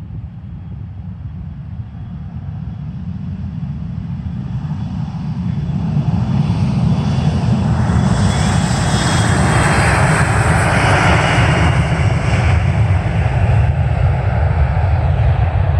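Airplane engines during takeoff: a deep rumble that builds over the first six seconds, then holds loud with a hissing roar and a high whine, easing slightly near the end.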